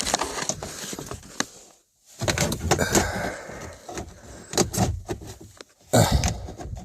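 Rustling, clicks and knocks of hands working among plastic dashboard trim and metal brackets under a car's dash, with a brief silent gap about two seconds in.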